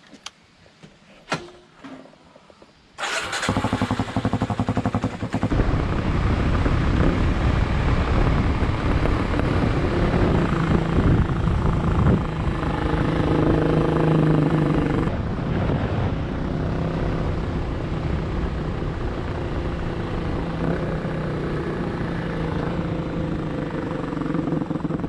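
A few clicks, then a motorcycle engine starts about three seconds in and keeps running steadily.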